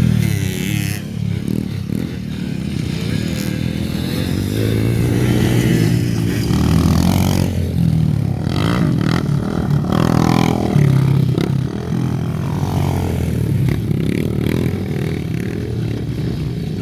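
Dirt bike engine running and revving, its pitch rising and falling repeatedly, with some scraping and clattering noise.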